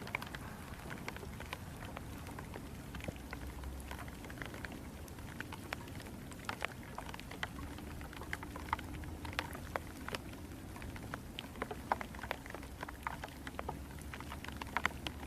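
Heavy rain falling, with many individual drops tapping sharply on nearby surfaces over a steady hiss of rainfall.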